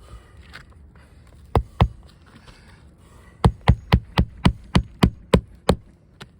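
Hammer blows on an asphalt-shingle roof: two sharp strikes, then a quick run of about ten strikes at roughly four a second.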